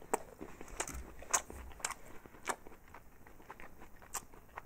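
Chewing a breaded chicken nugget, with a series of short crisp crackles about half a second apart, then one more after a pause.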